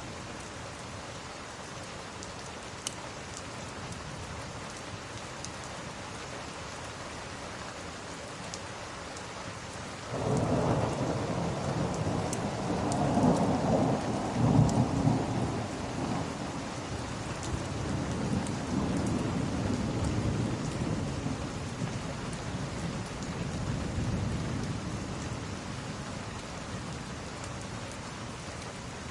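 Steady rain with a roll of thunder that breaks in suddenly about ten seconds in, rumbles loudest a few seconds later, and slowly fades away over the next dozen seconds.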